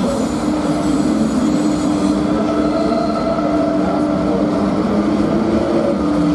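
A train moving through the station: steady rolling noise with a continuous low hum.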